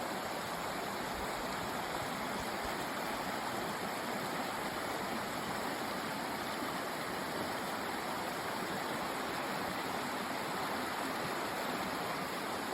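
Steady rushing of a mountain creek flowing over rocks, an even wash of water noise with no breaks.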